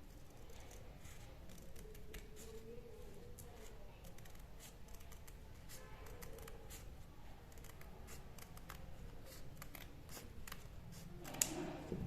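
Fabric scissors snipping through stiff buckram interfacing in a run of short, crisp cuts, with a sharper click near the end.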